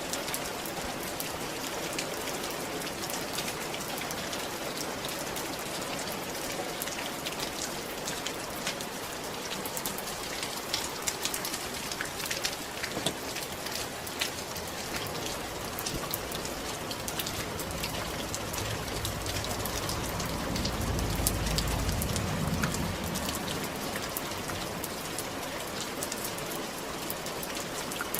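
Steady rain falling on a roof, a dense patter with sharper single drops standing out. A low rumble swells and fades for a few seconds past the middle.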